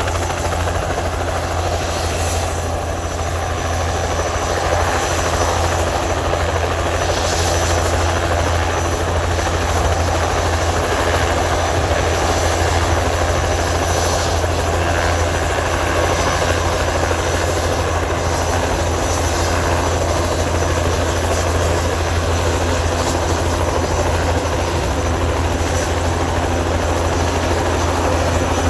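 Crop-spraying helicopter's rotor and engine running steadily, a constant low drone with a steady hum over it.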